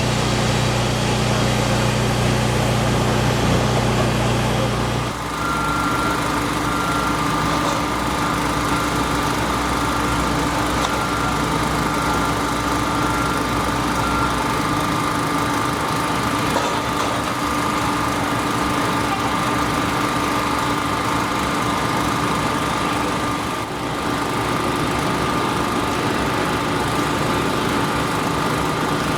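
Construction machinery engine running steadily. About five seconds in, the deep hum drops away and a steady higher whine carries on with the engine noise.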